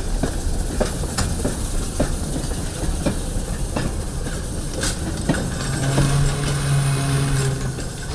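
Train rolling past on the rails, with a steady rumble and regular clicks, about two or three a second, typical of wheels crossing rail joints. Near the end a steady low tone is held for about two seconds.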